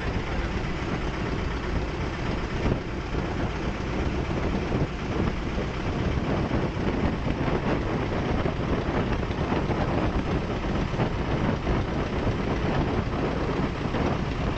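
Boat engine running steadily under way.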